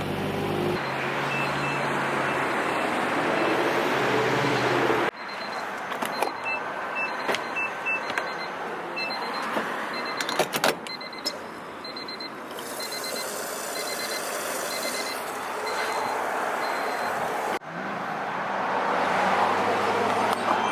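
Turbocharged Honda Civic on the move: steady engine and road noise across several cut-together clips, with a string of short high electronic beeps through the middle.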